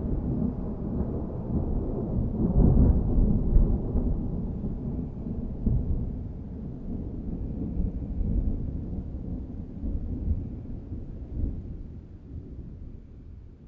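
Rolling thunder: a long low rumble with a few swells, slowly dying away.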